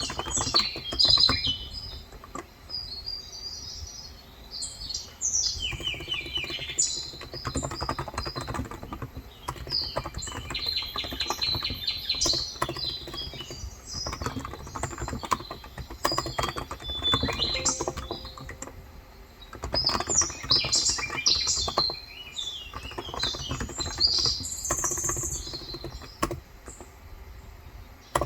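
Typing on a Cox Endeavour electrostatic capacitive tenkeyless keyboard with 35 g switches, in quick runs of keystrokes broken by short pauses. Small birds chirp throughout.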